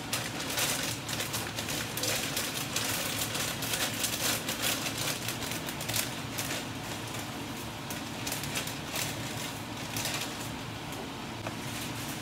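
Pancit noodles with chicken and vegetables sizzling in a non-stick wok over a gas flame, with irregular crackles and spatula scrapes as they are stirred, busiest in the first half, over a steady low hum.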